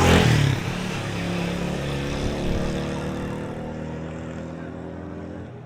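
A motor vehicle's engine passing close by and fading away as it drives off.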